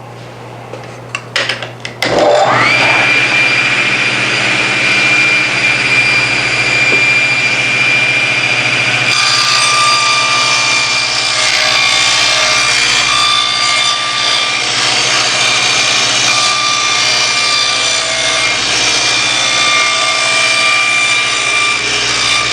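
Table saw switched on about two seconds in, its motor whine rising quickly to speed and holding steady. From about nine seconds in the blade is ripping plywood to trim off the factory edge, adding a rougher cutting sound over the whine.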